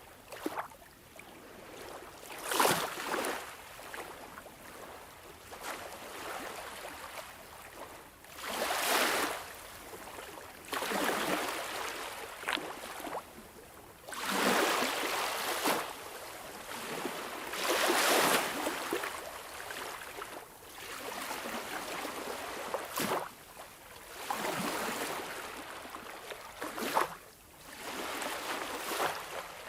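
Sea waves washing and splashing in irregular surges every few seconds, with a few sharp splashes among them.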